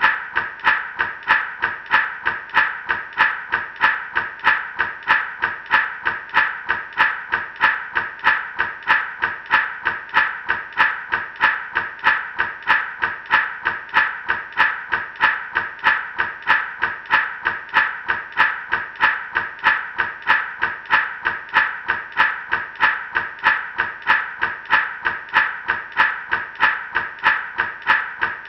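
Gourd rattle being shaken in a steady, even rhythm, its seeds giving a bright rattle on every stroke.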